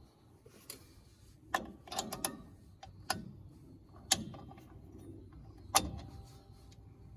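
Metal clinks and clicks from drum brake springs and hardware being worked with hand tools while the return springs are fitted: about half a dozen sharp clinks at uneven intervals, the loudest around four and six seconds in.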